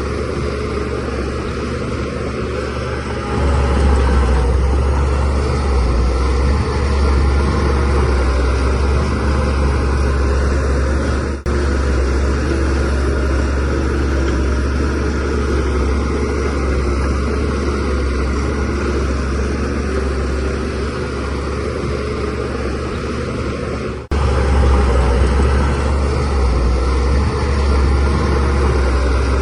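DH17C3 bulldozer's diesel engine running steadily as it works, growing louder about three seconds in and again near the end. There are two brief, sudden drops in the sound, one near the middle and one shortly before the end.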